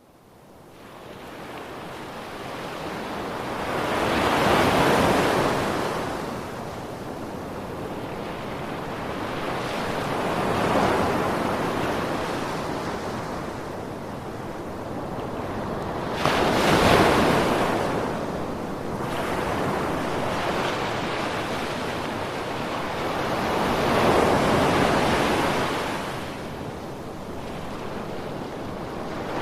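Ocean waves breaking and washing back, swelling and ebbing about every six seconds, the surge near the middle the loudest. The sound fades in from silence at the start.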